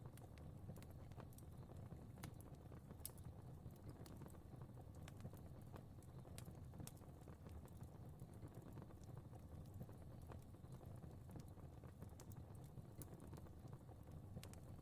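Fire crackling faintly, with scattered small pops and ticks over a low steady rumble.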